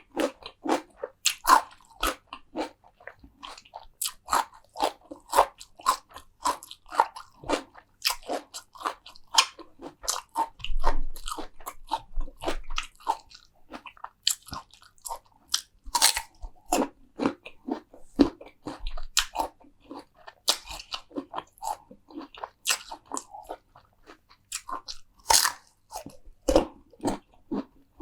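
Close-miked eating: a person biting and chewing crunchy food, with a steady run of crisp crunches and mouth clicks.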